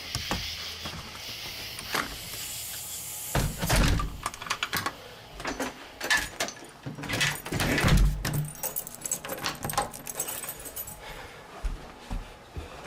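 Keys jangling and clattering, with a run of clicks and rattles and two heavy thumps, about four seconds in and again about eight seconds in.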